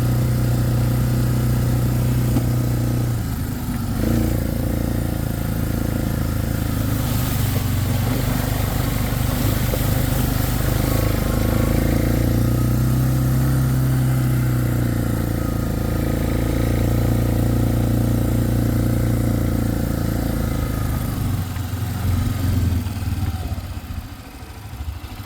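Four-wheeler (ATV) engine running under way, its pitch rising and falling a few times with the throttle, then easing off to a lower, quieter note near the end as it slows.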